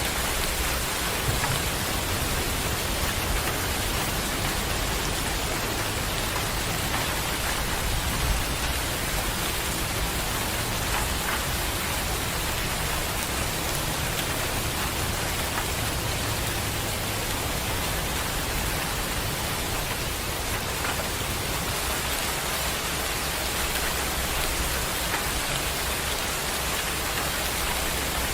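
Steady rain falling, an even hiss with no letup, with a low rumble underneath that eases a little after about halfway.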